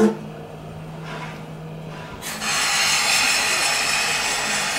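A sharp bang at the start, then about two seconds in a loud, steady hiss begins suddenly as the vintage passenger train comes to a stop: air or steam venting from the train.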